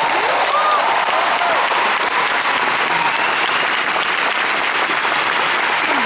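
Concert audience applauding and cheering loudly and steadily, with a few rising-and-falling whoops in the first couple of seconds.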